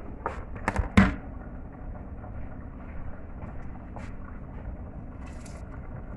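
Three sharp knocks on a cooking pot in the first second, the last the loudest, then a steady low rumble.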